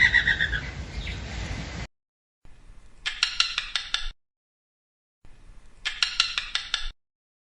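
Bird calls: a series of chirps fading out in the first half-second, then two separate bursts of rapid, evenly repeated calls lasting about a second each, near the middle and near the end, with dead silence between them.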